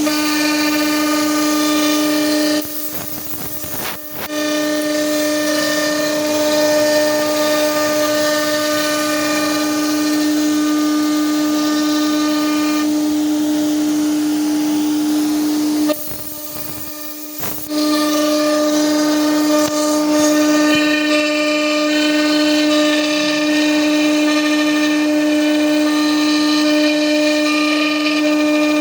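CNC machine running: a steady, high whine from the spindle over the hiss of cutting. The noise drops away briefly twice, about three seconds in and again about sixteen seconds in, then resumes.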